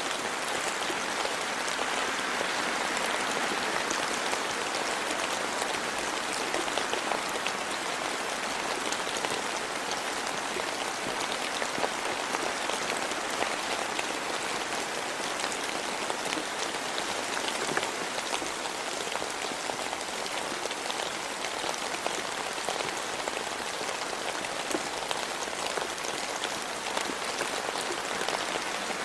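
Steady rain falling in a forest, a dense hiss of drops with many small individual drips ticking through it.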